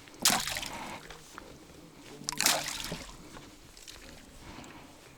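Water splashing and sloshing at the river's edge in two short bursts, about two seconds apart.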